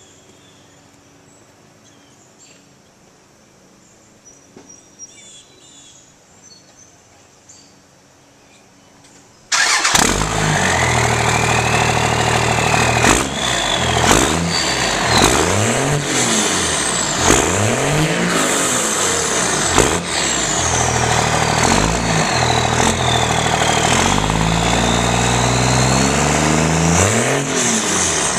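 Dodge Ram 2500's 24-valve Cummins inline-six diesel through a 4-inch stainless MBRP turbo-back exhaust: after a quiet stretch it fires up abruptly about nine seconds in, then is revved up and down several times, with a turbo whistle gliding up and down alongside the revs.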